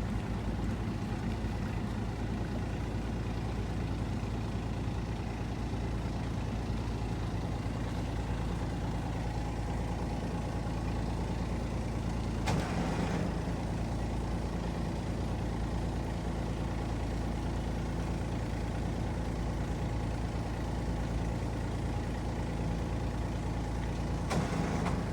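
A boat's engine running steadily at low speed, a low even drone, while the sailboat is motored into its slip. Two brief knocks cut across it, about halfway through and again near the end.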